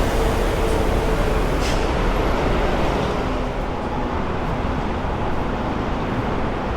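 Steady road traffic noise, with the hum of passing vehicles.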